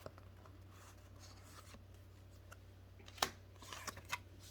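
Quiet room tone with a low steady hum, broken by a few light clicks and rustles of Pokémon trading cards being handled, the clearest about three seconds in.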